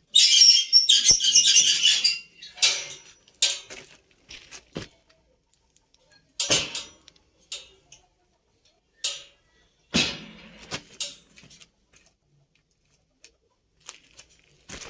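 Metalwork on a steel grille door: a harsh burst of noise about two seconds long at the start, then several short separate bursts spaced a second or a few seconds apart.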